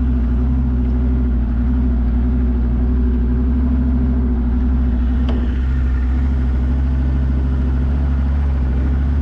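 Off-road 4x4's engine running steadily under way, a constant low drone, with a single short click about five seconds in.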